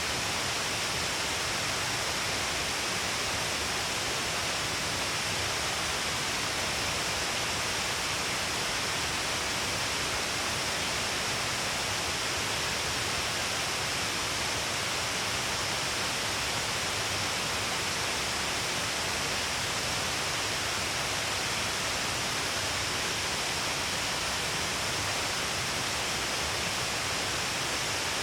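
Shiraito Falls: a wide curtain of water spilling down a cliff face, producing a steady, unbroken rush of falling water and spray.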